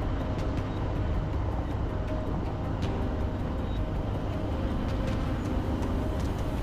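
Steady low rumble of a moving vehicle on a road, with faint music underneath.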